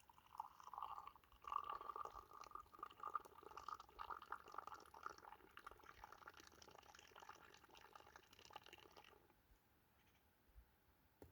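Liquid being poured, a faint steady splashing that lasts about nine seconds and then stops.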